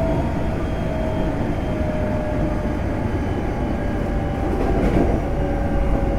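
Interior running noise of a Semboku Rapid Railway 5000 series electric train: a steady rumble from the wheels on the rails, with a faint tone slowly falling in pitch.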